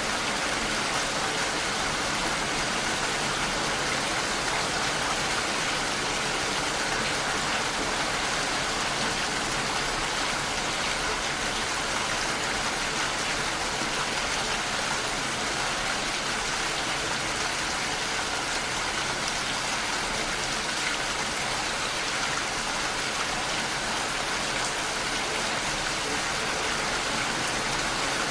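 Steady rain pattering against a window pane, an even hiss with no let-up.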